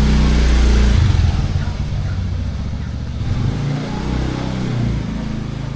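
A motor vehicle engine running close by, loudest for about the first second and then fading as it moves away.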